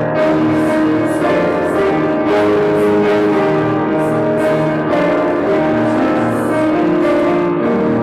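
Instrumental church music: a keyboard plays sustained chords with bell-like notes.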